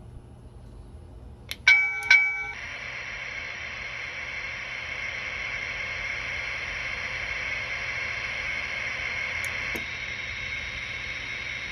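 Two quick bell dings from the Protosounds sound system of an MTH Rail King gas turbine locomotive: the two bell sounds expected during the sound-chip reset. They are followed by a steady, loud hissing whine with a high tone, the locomotive's sound system running on.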